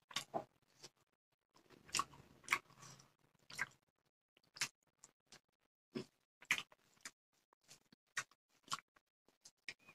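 A person chewing a mouthful of fish and rice with wet mouth smacks and clicks, about one a second, with a busier stretch of chewing a couple of seconds in.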